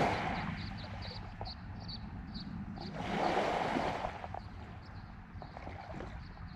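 A bird chirping over and over, a short high note two or three times a second, over a low steady rumble. Two rushes of wind-like noise swell through it: one dying away in the first half-second, the other about three seconds in.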